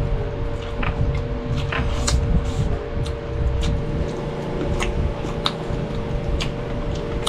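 Close-miked eating by hand: irregular wet chewing and lip-smacking clicks over a low rumble, with a steady hum underneath.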